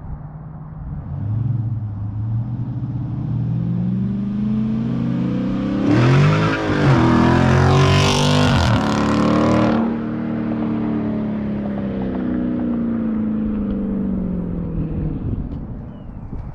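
Dodge Charger Scat Pack's 6.4-litre HEMI V8 with a mid-muffler delete driving past under hard acceleration. The exhaust builds to its loudest from about six to ten seconds in, then falls steadily in pitch as the car moves away.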